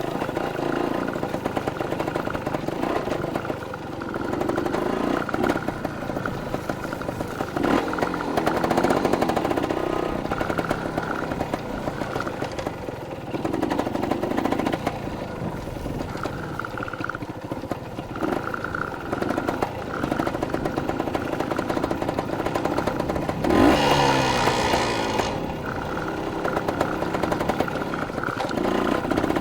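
Dirt bike engine running while being ridden, its pitch rising and falling with the throttle. Near the end a brief, louder rev up and back down.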